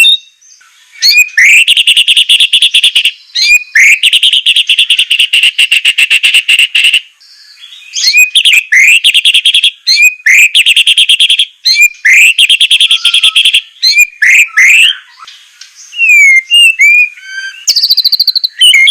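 White-rumped shama (murai batu) singing loudly: long, rapid rattling trills (the 'besetan' rattle) of many notes a second, broken by short whistled up-and-down phrases and ending in brief whistled notes.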